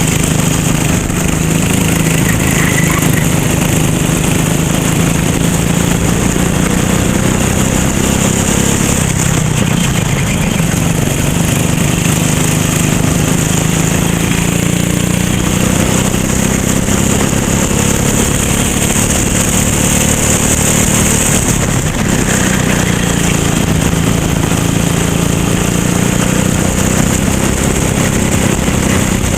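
Racing kart engine running hard, its pitch dropping and then climbing again twice, about nine seconds in and again about twenty-two seconds in, as the kart slows for corners and accelerates out.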